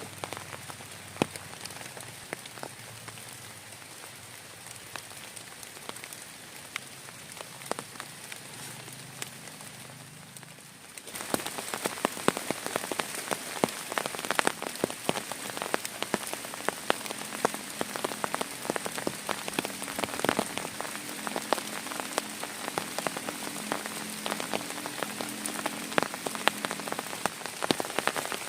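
Heavy rain falling, a steady hiss dotted with many sharp drop impacts. It turns abruptly louder and denser about eleven seconds in.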